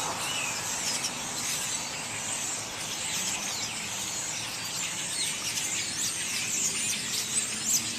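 A large flock of birds calling all at once: a dense, steady chatter of many overlapping short high calls, many of them sliding down in pitch.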